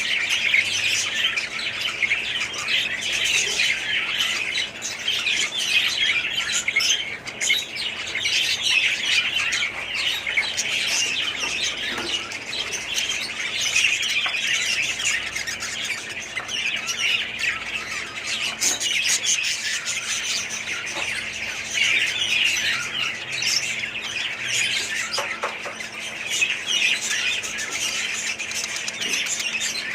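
Many small parrots chattering together: a dense, continuous din of overlapping chirps and squawks from a crowded flock.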